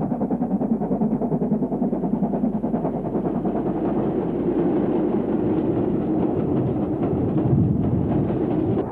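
A train running: a dense, steady mechanical noise with no clear beat, ending abruptly.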